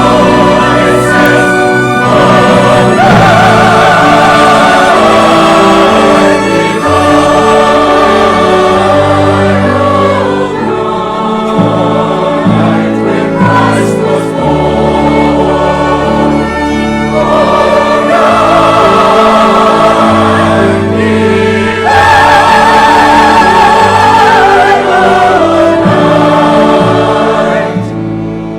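A church choir singing a Christmas piece with orchestral accompaniment, sustained notes over a held bass line, ending on a fading phrase near the end.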